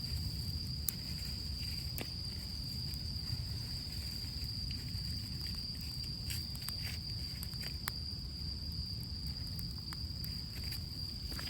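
Small campfire of rain-wet wood starting to catch, giving scattered sharp crackles and pops over a low rumble. A steady high insect trill, like crickets, runs underneath.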